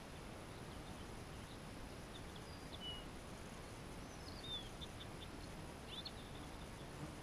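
Faint birds calling, a few short chirps and whistled notes scattered over a steady background hiss.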